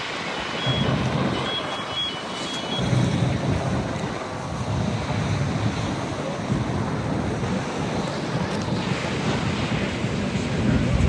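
Wind buffeting the microphone over a steady rushing noise. A few short, high beeps sound in the first three seconds.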